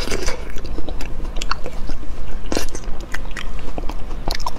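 Close-miked chewing of a bite of strawberry gummy candy dipped in yogurt: irregular wet mouth clicks and smacks.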